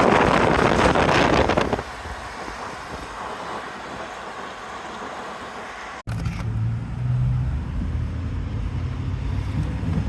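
Wind buffeting the microphone for the first two seconds, easing to a softer rushing hiss. After an abrupt cut about six seconds in, a car's low engine and road rumble.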